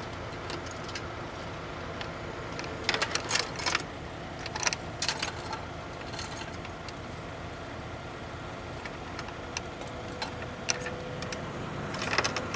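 A heavy truck engine running steadily at idle, with bursts of sharp metal clanking and jingling about three to five seconds in and again near the end.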